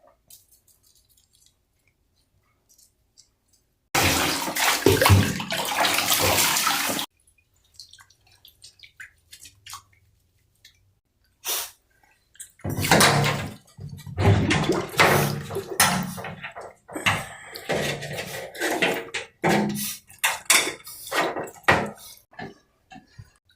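Water in a bathtub during a dog's bath. About four seconds in, a steady rush of running water lasts about three seconds. Later come many irregular splashes and sloshes.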